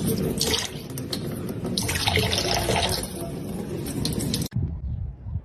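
Running water, like a tap or sink, as a steady rushing noise that cuts off abruptly about four and a half seconds in.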